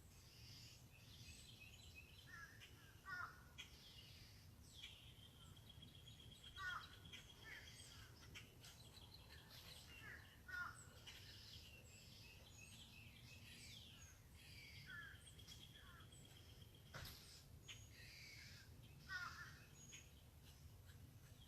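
Several wild birds calling faintly: short chirps and calls every couple of seconds, with a buzzing trill that comes and goes, over a low background rumble.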